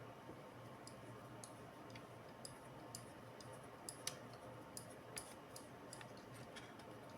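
Faint, irregular small clicks and ticks, about a dozen, from small parts and tools being handled during laptop disassembly. A low steady hum lies beneath them.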